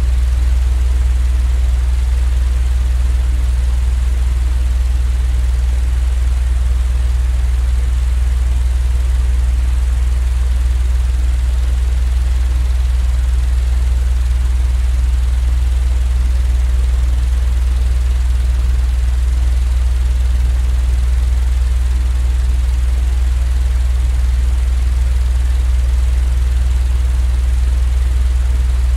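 Continuous low droning rumble with a faint even hiss above it, unchanging throughout: a steady sleep-aid noise track.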